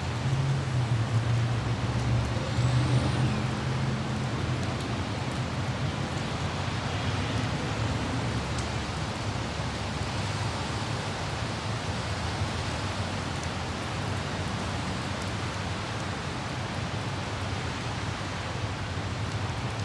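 Steady hiss of light rain over the low rumble of city traffic, a vehicle's drone heavier in the first few seconds, then easing to a constant background.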